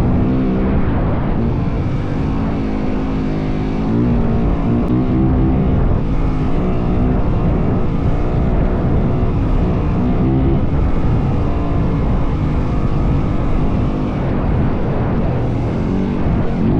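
Yamaha WR450F single-cylinder four-stroke dirt bike engine running under way, its pitch rising and falling as the throttle is worked, over heavy wind noise.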